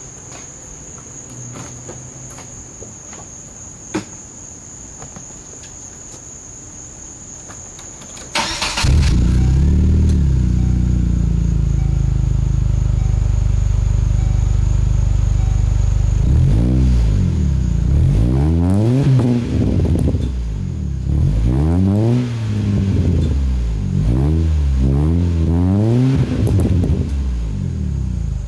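Chevrolet Cavalier 2.2-litre four-cylinder with an aftermarket header and Magnaflow muffler starting up about eight seconds in, after a quiet stretch with a faint high whine. It idles steadily, then is revved in a series of quick rises and falls.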